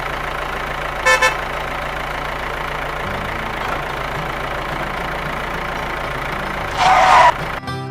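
Tractor engine running steadily, with a quick double horn toot about a second in and a longer, louder horn blast near the end.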